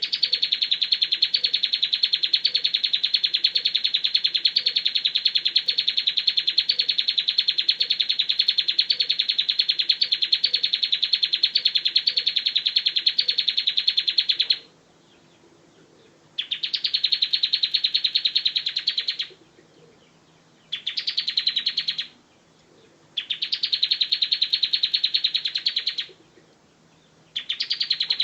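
Bar-winged prinia singing: one long, rapid trill of evenly repeated high notes lasting about fifteen seconds, then after a short pause four shorter trills of one to three seconds each, each opening on a slightly higher note. A faint low hum sits underneath.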